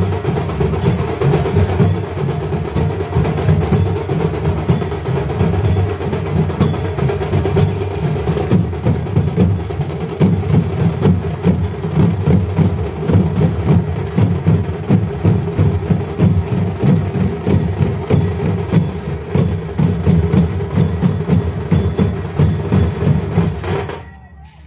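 Drums and other percussion played together in a fast, steady rhythm, stopping abruptly near the end.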